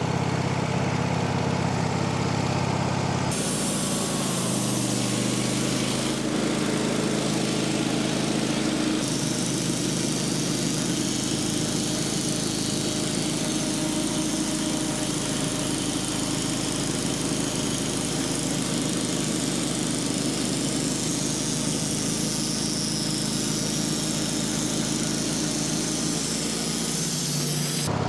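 Sawmill engine running steadily, with its tone shifting abruptly about 3 seconds and 9 seconds in.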